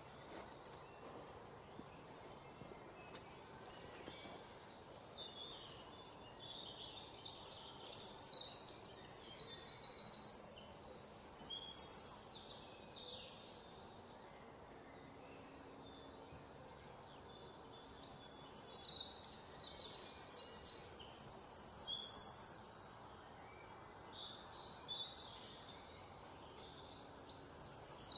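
A songbird singing close by: two long bouts of rapid high trills and chirps about ten seconds apart, then a shorter bout near the end, with faint chirping in between.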